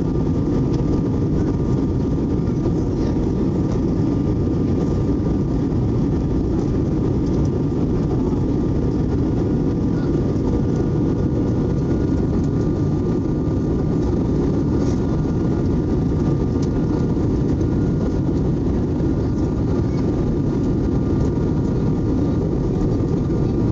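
Steady roar of an Airbus A320's jet engines and airflow heard inside the cabin during descent, with a few faint steady tones over it.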